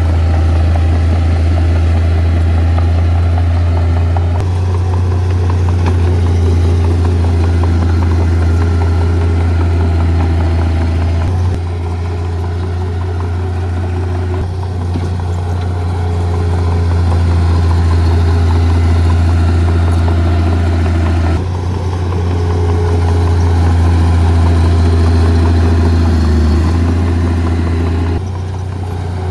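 Diesel engine of heavy earthmoving equipment running, with a deep steady drone; the sound changes abruptly a few times.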